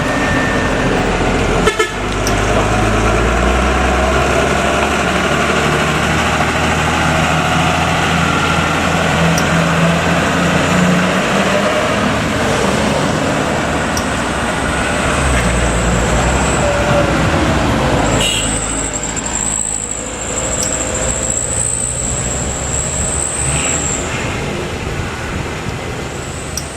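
Heavy road traffic: large truck engines running and vehicles passing, with a horn sounding.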